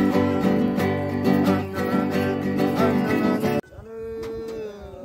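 Music with a strummed acoustic guitar that cuts off abruptly about three and a half seconds in, leaving quieter chanting with a held, slowly sliding note.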